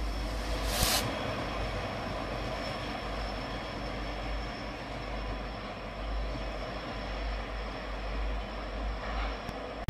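Train rolling past with a steady, noisy rumble, and a short hiss just under a second in.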